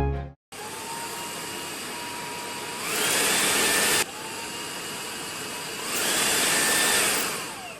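Dyson V8 Cyclone cordless vacuum cleaner running with a high motor whine and air rush. Twice the whine climbs higher and gets louder, as when it is switched into its stronger suction mode. Near the end it winds down, falling in pitch.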